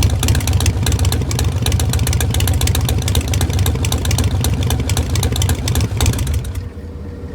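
Harley-Davidson Iron 1200's air-cooled 1200 cc V-twin running through Vance & Hines Shortshots exhaust pipes, with a loud, uneven exhaust beat. Near the end the sharp exhaust pulses drop away and a quieter low hum is left.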